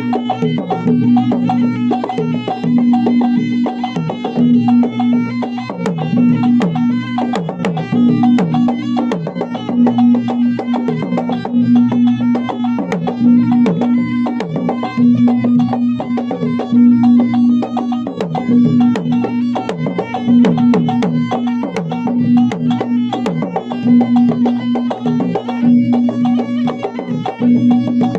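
Traditional Maros gendang drums from South Sulawesi playing a fast, dense, driving rhythm, with a steady pitched tone underneath that swells about once a second.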